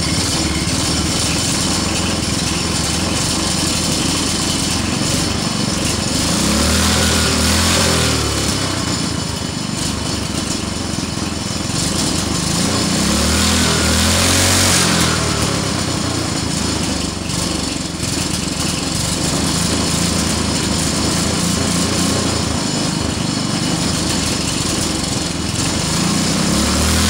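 Go-kart engine running steadily, revved up and back down three times.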